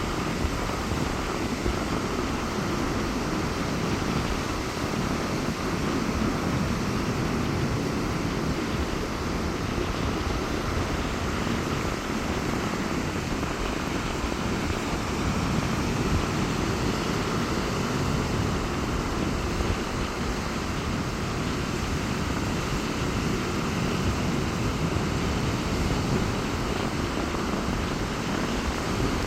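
Rough sea surf washing onto a sandy beach in strong wind: a steady low rushing noise, with wind rumbling on the microphone.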